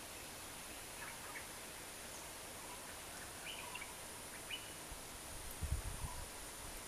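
Faint outdoor background hiss with scattered short bird chirps. A brief cluster of low thumps about five and a half seconds in.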